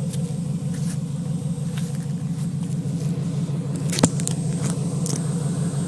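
Chevy pickup truck engine idling steadily. A single sharp knock sounds about four seconds in.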